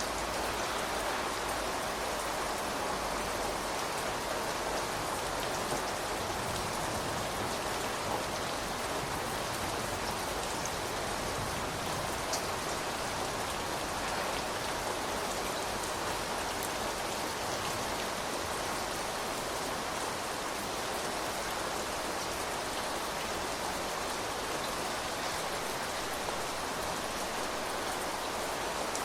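Steady rain falling, with a constant hiss of drops hitting surfaces and a few individual drop ticks standing out now and then.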